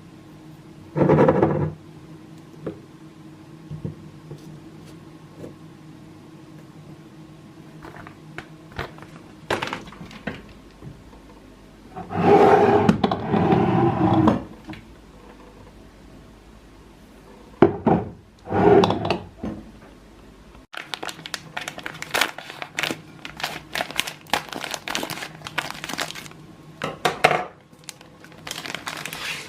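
Plastic packaging crinkling in several bursts, the longest lasting about two seconds, then a run of many light clicks and taps as items and containers are handled.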